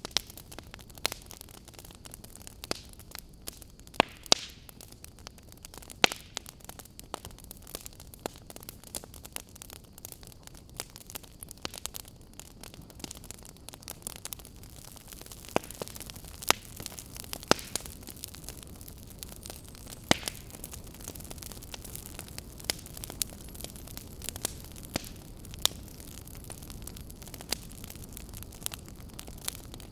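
Wood fire crackling: irregular sharp pops and snaps over a soft, steady hiss.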